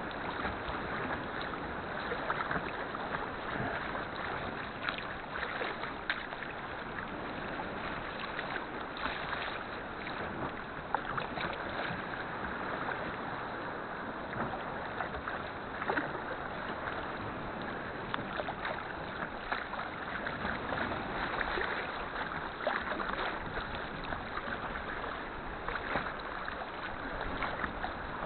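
Sea kayak being paddled: steady wash of seawater, with irregular small splashes from the paddle blades.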